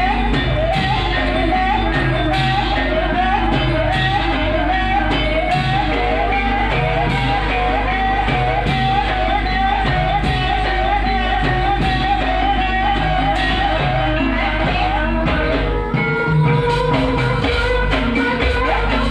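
Live music accompanying an ebeg horse-trance dance, with a voice carrying a wavering, repeating melodic line over steady percussion. The melody stops and the texture changes briefly about sixteen seconds in.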